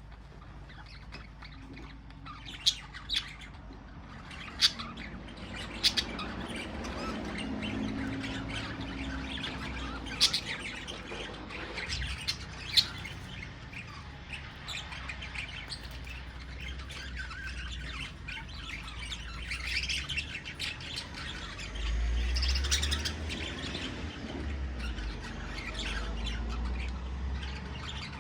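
Budgerigars chirping and squawking in short, sharp, scattered calls, over a low rumble that swells about two thirds of the way through.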